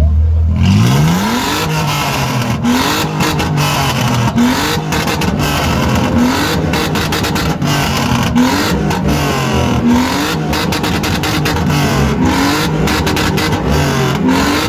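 Supercharged Mercedes V8 engine revved over and over in short blips, its pitch rising quickly and falling back about once a second, with crackles over the engine note.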